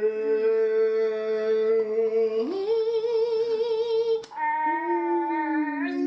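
Two voices humming long held notes together, one higher than the other, each stepping to a new pitch a couple of times, with a wavering stretch partway through.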